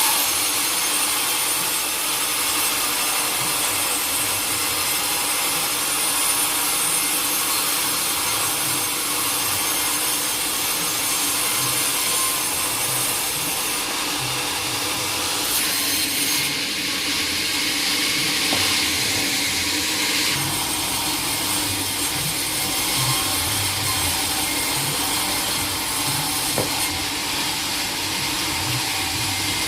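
Sawmill blade cutting through a teak log: a steady sawing noise whose character changes abruptly a few times midway.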